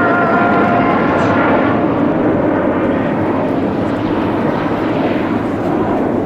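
Loud jet noise from a military fighter aircraft: a high whine of several steady tones for about the first second and a half over a dense, even rush of engine noise that carries on steadily.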